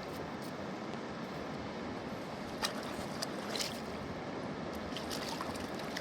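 Steady rushing of river water, with a few light clicks or taps near the middle and again around five seconds in.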